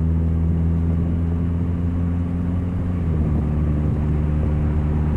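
Nissan Altima's 2.4-litre four-cylinder engine running steadily with a loud low drone, its note shifting slightly about three seconds in; the extra noise comes from a leaking exhaust.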